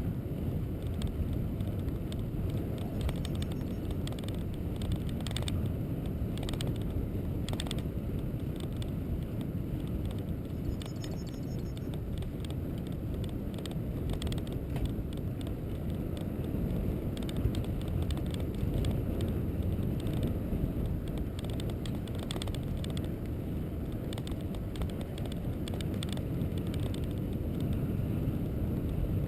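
Steady low rumble of tyres and wind while riding along a road under repair, with scattered short clicks and rattles.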